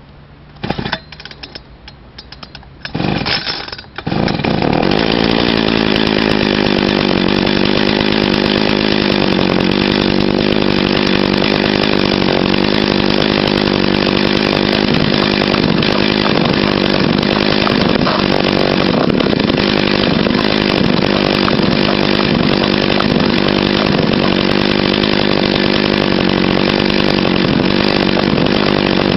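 A small two-stroke engine being pull-started: two short spells of sputtering, then it catches about four seconds in and keeps running steadily.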